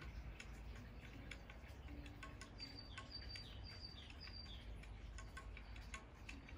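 Faint garden ambience: a bird gives a quick run of high chirps about halfway through, over scattered soft clicks and a low background rumble.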